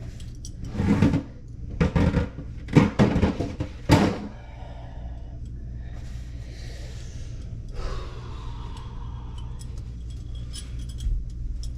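Hand tools and plumbing parts clattering and knocking as they are handled and rummaged through: a run of loud rattles in the first four seconds, then quieter scraping and shuffling, over a steady low hum.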